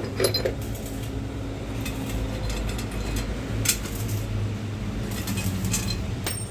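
Scattered light clinks and rattles of small metal hardware, such as bolts and washers, being handled, over a steady low background hum.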